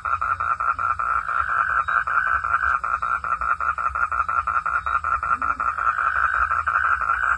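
Frogs calling in a steady chorus, a fast, even pulsing of about seven pulses a second, with a low rumble underneath.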